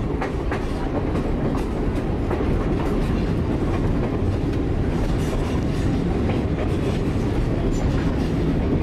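Skunk Train rolling along at speed: a steady low rumble of wheels on the rails, with light irregular clicking.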